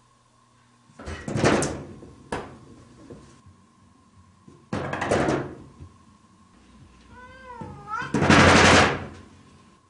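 A cat thumping and rattling a door, several separate bangs with the loudest near the end, and one short meow just before the last bang.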